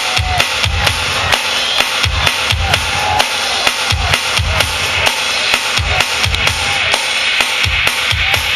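Electronic dance music from a DJ set played loud over a festival sound system, with a steady kick drum about twice a second and crisp hi-hat ticks.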